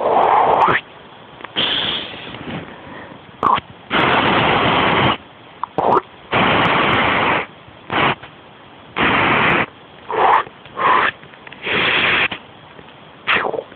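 A person making a string of silly non-speech mouth noises: breathy, hissing or blowing bursts about a second long, with a few short pitched squeaks between them.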